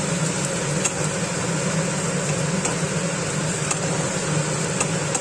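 Chopped vegetables sizzling in hot oil in a non-stick kadai, a steady hiss over a low hum, with a few light clicks of a wooden spatula against the pan as they are stirred.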